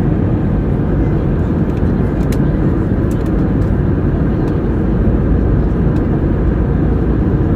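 Airliner noise: a steady low rumble and rush of air that holds even throughout.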